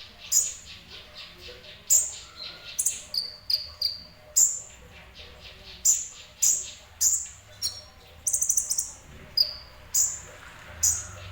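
Sunbird, the Indonesian 'kolibri ninja', singing in short bursts: sharp, high chirps, some falling in pitch, and quick rattling trills, repeated every second or so.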